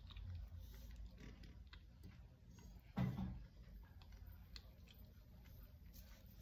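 Faint chewing with soft wet mouth clicks and ticks as a person eats acarajé, a fried bean fritter, with one short louder low thump about three seconds in.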